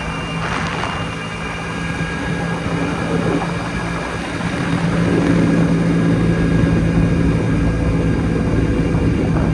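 Jawa 250 type 559 single-cylinder two-stroke motorcycle engine running steadily while riding, getting louder from about halfway through.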